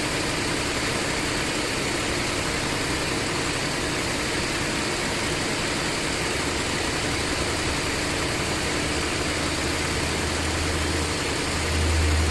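Cadillac SRX's 3.6-litre V6 running steadily at a raised idle, its throttle held open, partway through an engine-oil flush cleaning cycle. A deep low hum swells up near the end.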